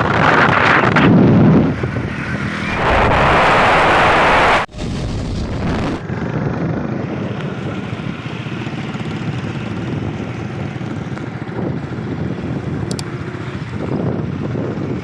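Wind rushing over the microphone on a moving motorcycle, with the bike's running noise under it. It comes in loud gusts for the first few seconds, then after a sudden cut settles into a steadier rush.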